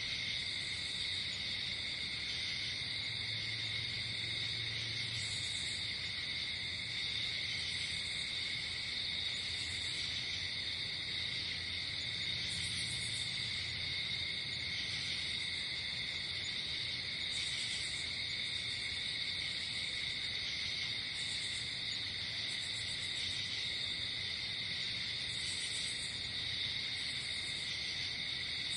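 Night insect chorus: crickets trilling steadily, with a higher-pitched insect call coming in short bursts every second or two.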